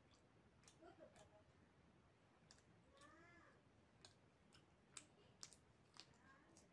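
Faint, close mouth clicks and smacks of a person chewing food while eating by hand, a dozen or so short sharp clicks, the loudest about five seconds in. A short faint voice-like sound, rising then falling in pitch, about three seconds in.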